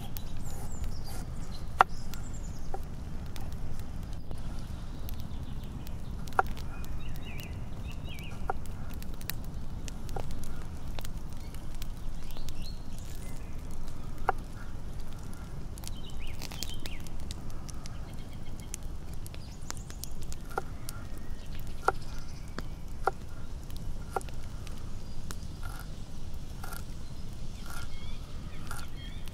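A knife slicing fresh ginger on a wooden cutting board, the blade tapping sharply on the board at irregular intervals, over a steady low outdoor rumble. Birds chirp faintly now and then.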